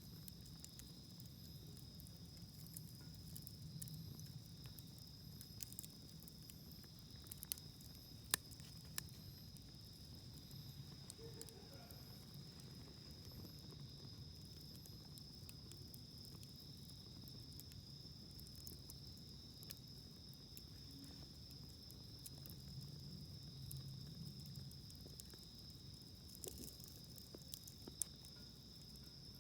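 Wood campfire burning with scattered sharp crackles and pops, a few louder ones about a third of the way in and again near the end. Underneath, a steady high insect chirring.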